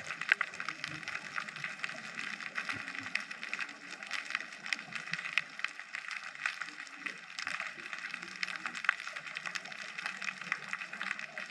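Underwater ambience recorded through a camera housing: a steady, dense crackle of countless small clicks and pops.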